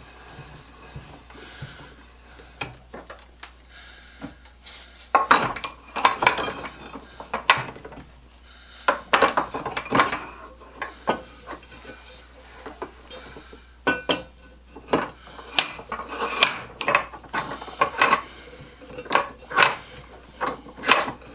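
Metal parts clinking and clattering as they are handled and set down: a run of irregular sharp knocks and clinks that starts about five seconds in, after a few seconds of low workshop hum.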